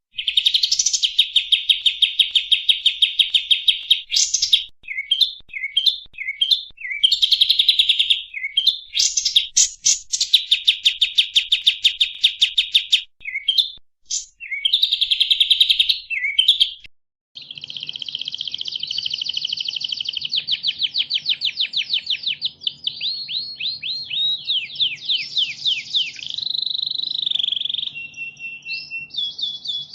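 Recorded songbird song played as a masteran, the training song for caged songbirds: fast, high trills and rapid chattering phrases. A short break about halfway in, then a different bird sings, with quick sweeping slurred notes over a faint low hum.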